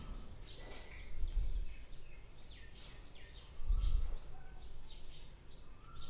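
Birds chirping in the background, a run of short, high, downward-sweeping chirps, with two dull low rumbles about one and a half and four seconds in.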